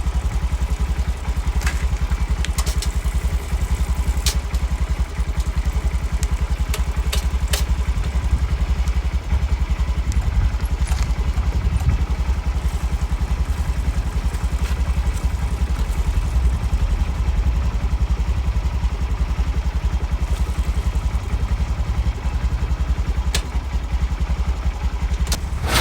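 Honda Grom 125's single-cylinder engine running steadily at low revs, with a few sharp clicks.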